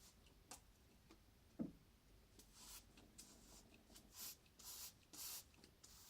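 Near silence: faint scratching and a few small clicks, with short scratchy bursts in the second half.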